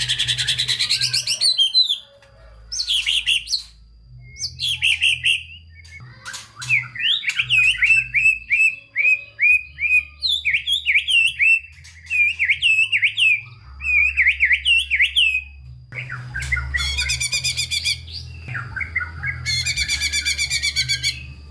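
White-rumped shama (murai batu) singing a varied song: whistled phrases, a run of quick repeated notes in the middle, and fast high trills near the end, with short pauses between phrases.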